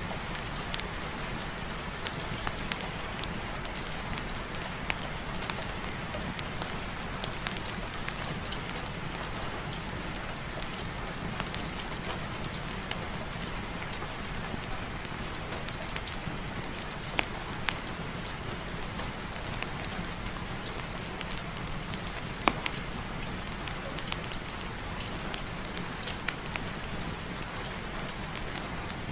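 Steady rain with a fireplace fire crackling: an even hiss with scattered sharp pops and clicks, one louder pop a little before the end.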